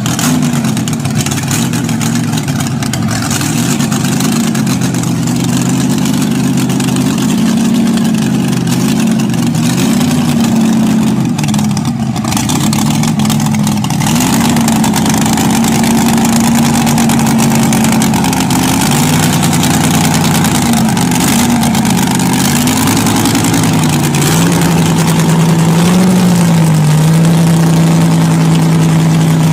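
Motorcycle engine running up close, its pitch wandering up and down with small throttle changes, then holding at a steady idle for the last few seconds.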